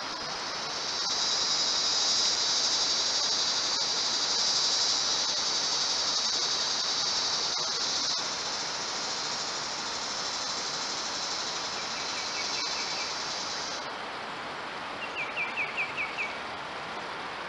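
An insect drones steadily in a high, even buzz that swells in about a second in and cuts off abruptly after about thirteen seconds. Near the end comes a quick run of about six sharp chirps.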